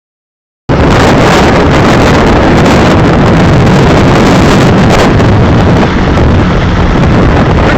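Strong wind buffeting the microphone: a loud, rumbling rush of noise that starts abruptly just under a second in and keeps on without a break.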